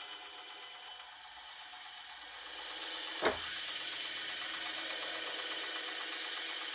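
Bandsaw running and cutting wood, a steady high whine with one sharp knock about three seconds in, a little louder after it.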